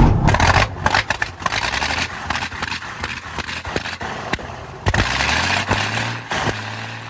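Old Cummins diesel dump truck engine running just after a cold start: loud at first, it settles about half a second in to a rough, uneven idle with irregular sharp knocks, one louder near five seconds, then a steadier hum.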